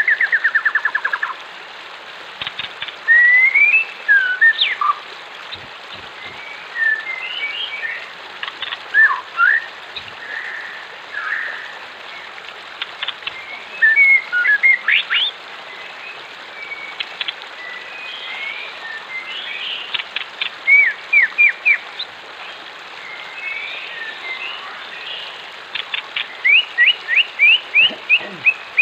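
Wild birds singing and calling: varied whistled chirps, quick glides and rapid trills, with a fast run of repeated notes near the end. A steady rush of flowing water runs underneath.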